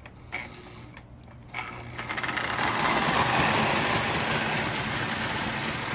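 Marx 898 toy steam locomotive running on its track, a fast, steady mechanical clatter of its motor and wheels. It starts about a second and a half in and gets louder over the next second.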